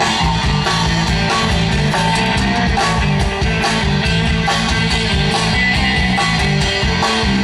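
Live band playing an instrumental passage with no singing: guitar to the fore over a moving bass line and a steady drum beat.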